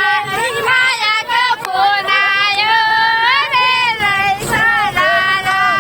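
A high female voice singing a melody, its pitch wavering and sliding between held notes.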